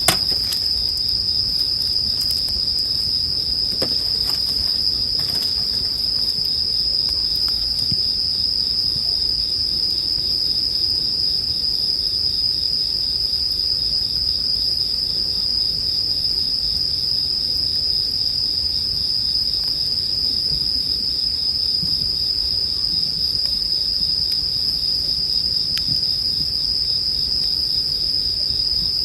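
Bell crickets (suzumushi) singing in a steady, high-pitched, unbroken ringing chorus. A few faint crackles of a wood campfire come in the first few seconds.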